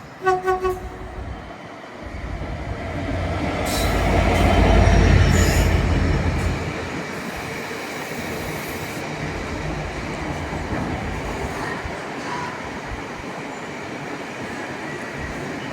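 A train running through the station, building to its loudest about four to six seconds in and then settling to a steady rumble. It opens with a brief pitched, pulsing tone.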